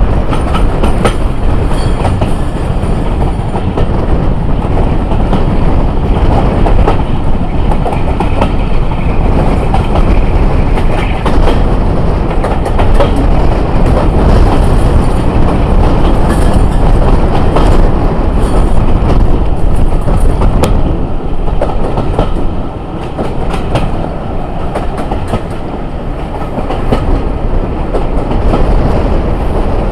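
Diesel-hauled passenger train running at speed, heard loud from an open coach window, with wheels clicking over the rail joints throughout.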